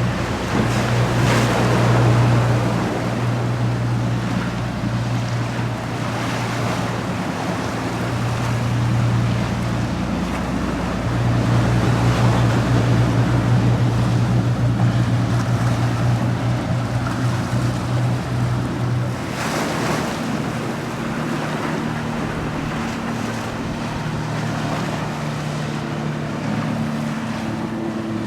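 Motorboat engines running as boats head out through the inlet: a steady low drone that gives way to a higher-pitched engine about two-thirds of the way in. Wind and breaking water hiss underneath.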